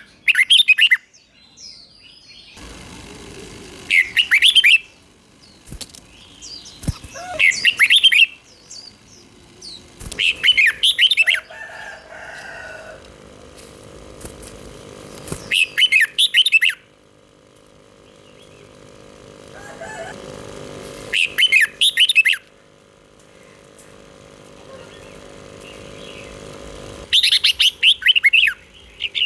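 Red-whiskered bulbul singing short, bright warbling phrases, one every few seconds with pauses between, over a faint steady hum.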